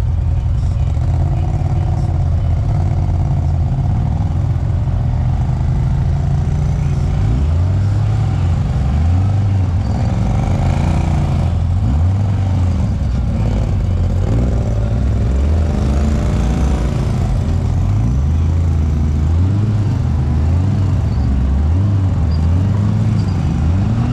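Side-by-side UTV engine running under load, its pitch rising and falling again and again as the throttle is worked, from a few seconds in.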